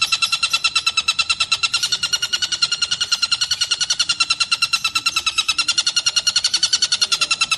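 Tengkek buto (collared kingfisher) calling in a fast, unbroken string of harsh repeated notes, about ten a second.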